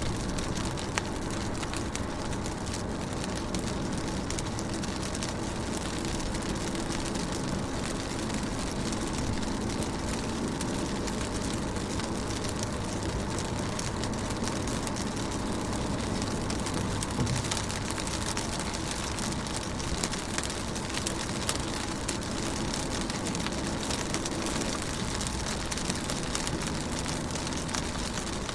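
Rain pattering on a car's windows and roof, heard from inside the car: a steady patter of drops with a low rumble beneath.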